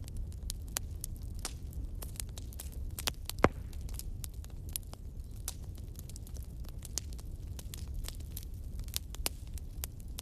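Wood campfire burning, with a steady low rumble and frequent sharp crackles and pops, one much louder pop about three and a half seconds in.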